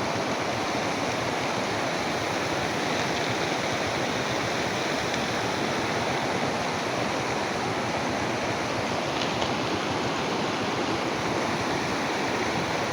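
Floodwater rushing past in a steady, unbroken roar of moving water.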